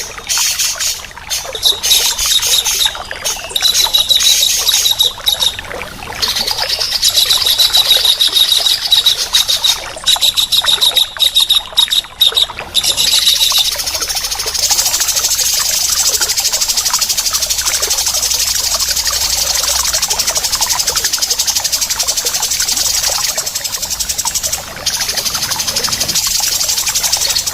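Harsh, rasping bird calls in fast rattling runs, choppy with short breaks through the first half, then nearly unbroken from about halfway. A thin high whistle sounds under the earlier runs.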